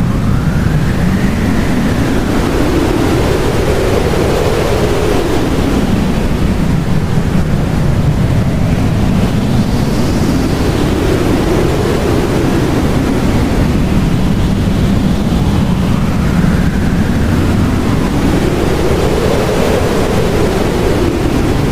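Blizzard wind blowing hard: a steady, loud rush of noise with whistling tones that rise and fall in slow gusts, repeating every five or six seconds.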